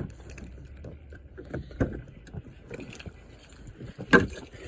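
A few irregular knocks and crunches, the loudest about four seconds in, over a steady low rumble.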